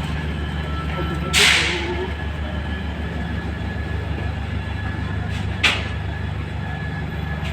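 Steady low hum of a passenger train, broken by two short, sharp hisses: a louder one about a second and a half in and a briefer one near six seconds.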